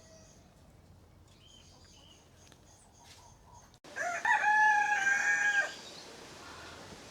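Faint bird chirps, then about four seconds in a rooster crows once, loudly, in a multi-part call ending on a held note of about a second.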